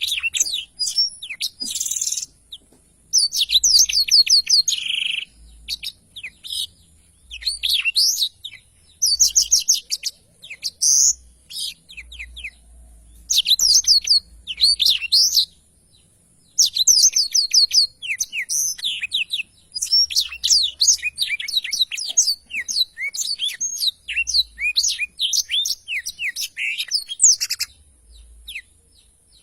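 Black-throated canary (blackthroat) singing its long rolling song: fast runs of high chirps and trills in phrases of one to three seconds, with short pauses between them.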